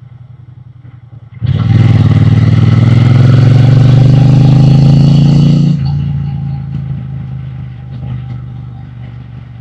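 Triumph Bonneville T120's 1200 cc parallel-twin engine and exhaust under acceleration: quiet at first, then about a second and a half in the throttle opens and the exhaust note goes loud, rising steadily in pitch for about four seconds. Then the throttle shuts suddenly and the engine falls back to a quieter, slowly fading run.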